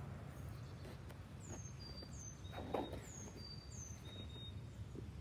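A songbird singing: two similar phrases of high, down-curving chirps with short, thin whistled notes, over a steady low rumble, with a single soft thump about halfway through.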